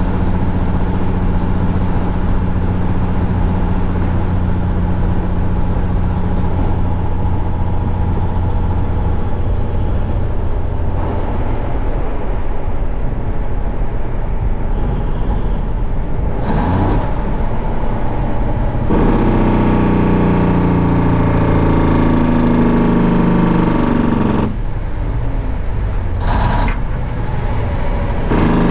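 Diesel engine of a 1971 Peterbilt 359 semi truck running under way, heard from the cab. Its sound changes about sixteen seconds in, and from about nineteen seconds it runs louder with the pitch sliding, with short sharp sounds near seventeen and twenty-six seconds.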